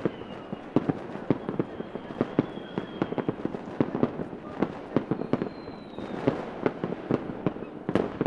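Fireworks going off in a dense, irregular barrage of sharp bangs, several a second. A few faint, high whistles sound over the bangs.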